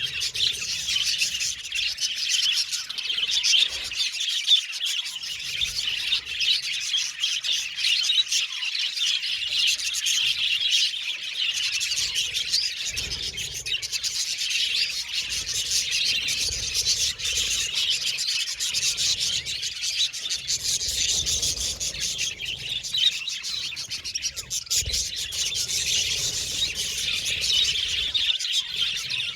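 Several budgerigars chirping and chattering without a break, a dense mix of quick high chirps and warbles.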